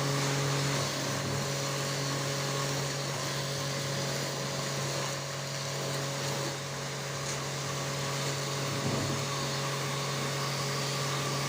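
A machine running steadily: a constant hum over an even hiss, with no change in speed.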